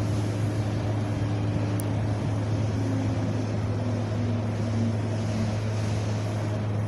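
Wind blowing steadily over a constant low rumble, with a faint tone stepping down in pitch midway.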